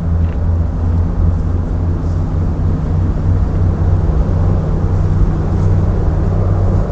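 Jet airliner engines heard from beside the runway, a steady low rumble.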